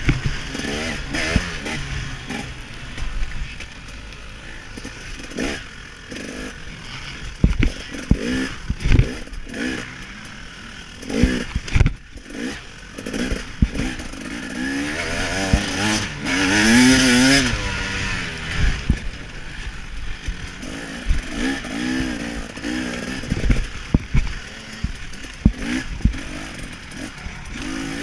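KTM 300 XC-W single-cylinder two-stroke dirt bike engine revving up and falling off again and again under racing throttle, with the longest, highest rev about halfway through. Sharp thumps and clatter of the bike over the track are mixed in.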